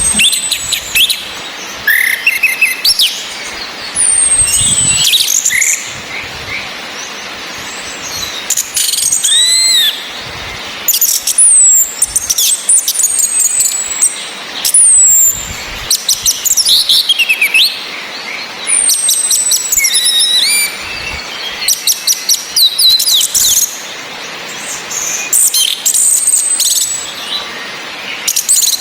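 Orange-headed thrush, a female's sharp 'ngecis' calls: high whistles that sweep downward and rapid trains of ticking notes, coming in bursts every second or two. A steady hiss of rain runs underneath.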